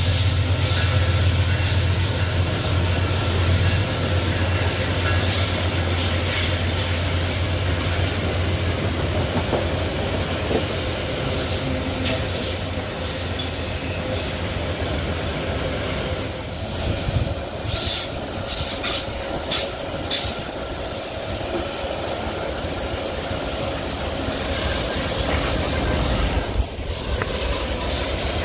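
Loaded ore wagons of a long freight train rolling past on a curve: steady steel-wheel rumble with wheels squealing at times and a run of clicks from the wheels over the rail. A diesel locomotive's low drone fades in the first few seconds, and a low rumble builds near the end as a mid-train locomotive approaches.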